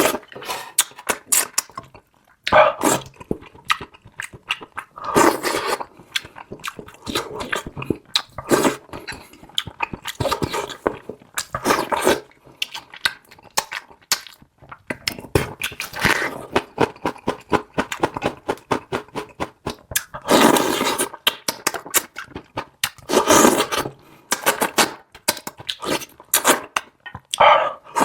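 Close-miked eating sounds: wet chewing with many small mouth clicks, and a louder slurp or suck every few seconds.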